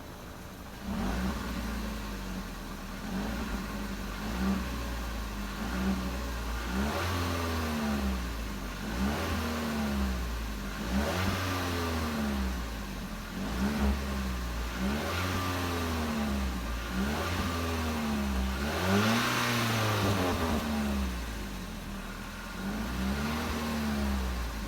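2016 Ford Fusion SE's stock exhaust as the engine is revved again and again: pitch rises and falls about every second and a half. The longest, highest rev comes about three quarters of the way in.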